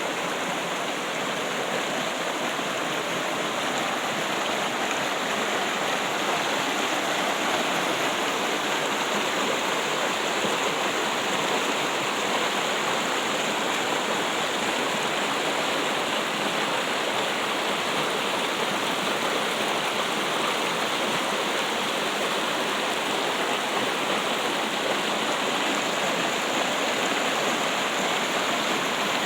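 Steady running water, a stream or small fall trickling without a break.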